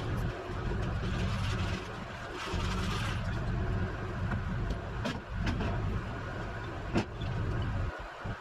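Rollback tow truck's engine running steadily, with a few sharp clicks or knocks, the loudest about seven seconds in.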